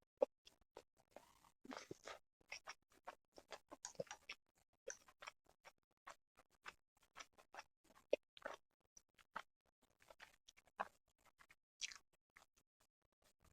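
Close-miked chewing and mouth sounds of someone eating sushi: many quick, irregular soft clicks and small smacks.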